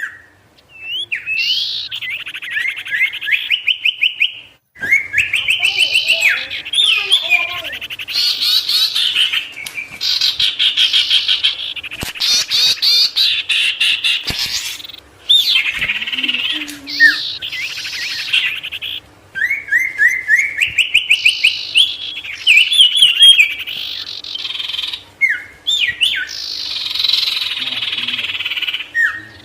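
Sirtu songbird singing loudly in fast trills: runs of rapidly repeated notes, many climbing in pitch, broken by short pauses between phrases.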